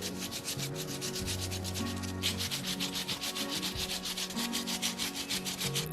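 Rapid rhythmic scraping, about eight strokes a second, over soft background music.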